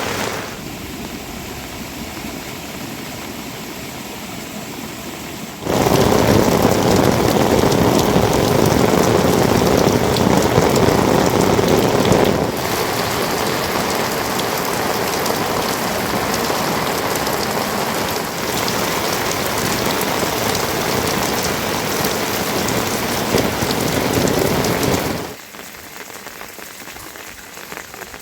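Steady rainfall, a dense hiss of falling drops. It gets abruptly louder and heavier about six seconds in, eases a little around twelve seconds, and drops to a lighter patter near the end.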